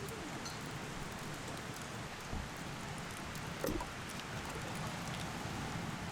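Meat sizzling as it grills, a steady hiss with scattered pops and crackles, and a couple of soft knocks in the middle.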